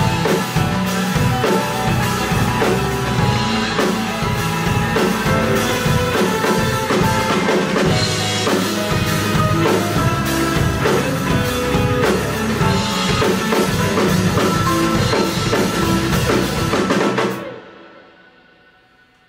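Live band music with a full drum kit playing the song's closing bars. It stops about seventeen seconds in and dies away to quiet.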